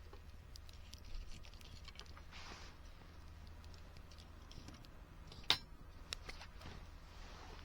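Small wood fire in a fire pit crackling, with scattered sharp pops, the loudest about five and a half seconds in.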